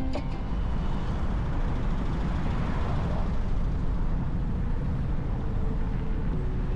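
Steady low rumbling noise with no clear rhythm, with faint steady tones entering in the second half.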